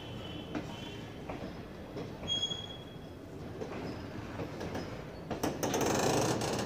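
Passenger train coaches rolling past, the wheels clicking over rail joints with brief high squeals. The rumble swells for about a second near the end.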